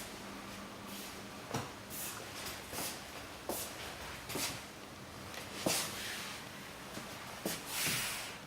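Irregular soft knocks and brushing noises, roughly one a second, over a faint steady hum, with a longer hissing rustle near the end.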